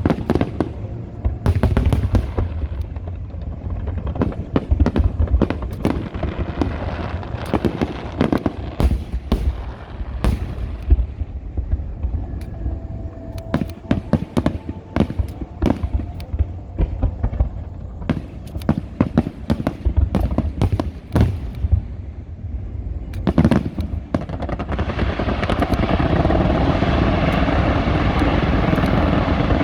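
Aerial fireworks bursting in rapid succession, a dense run of sharp bangs and cracks with the low rumble of the shells between them. About 24 seconds in the bangs give way to a steady, loud rushing noise.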